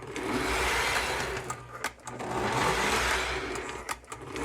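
Lionel O-gauge toy train locomotive whirring along the track with its electric motor, rising and falling as it circles past about every two seconds.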